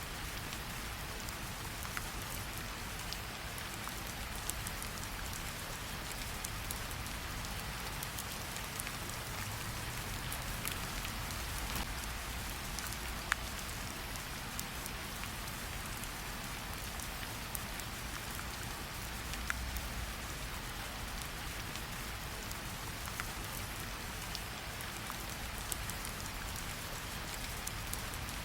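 Steady rain falling, with a campfire burning underneath and a scattering of sharp pops, the loudest about thirteen seconds in.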